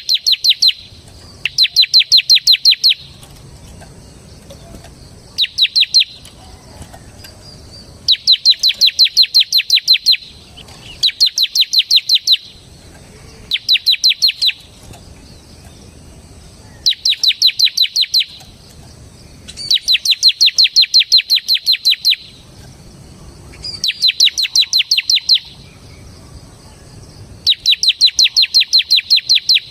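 Bar-winged prinia (ciblek semi) singing loudly in its rapid 'ngebren' style. It gives about ten bouts of quickly repeated sharp, high chip notes, each bout lasting one to two and a half seconds, with short pauses between them.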